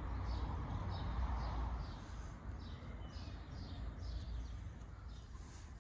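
A small songbird chirping over and over in short falling notes, about two or three a second, over a low steady rumble. A couple of faint clicks come in the second half.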